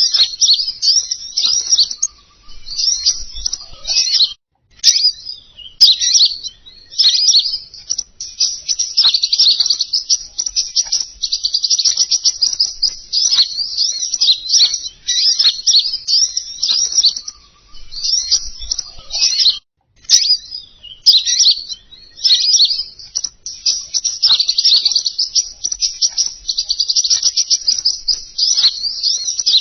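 Bird-lure recording of a small songbird's rapid, high twittering chirps, used to call in king konin birds. The chirps are dense and nearly unbroken, with two brief pauses, about four seconds and about twenty seconds in.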